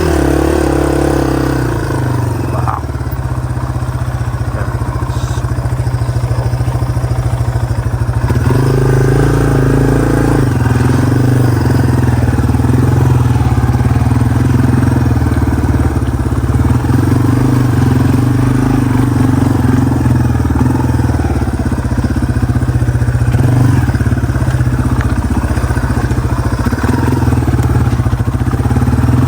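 Yamaha TW200's single-cylinder four-stroke engine running under way, its revs rising and falling briefly near the start and again about nine seconds in, then holding steady.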